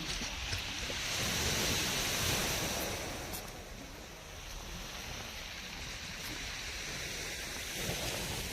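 Sea waves breaking on the shore: a rushing wash that swells about a second in and fades away after a few seconds, with a smaller surge near the end.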